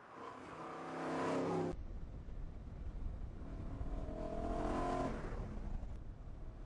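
BMW E92 M3's V8 engine accelerating, its note rising and growing louder, then cut off suddenly. A low rumble follows, and the engine pulls up through the revs again about three seconds in before fading.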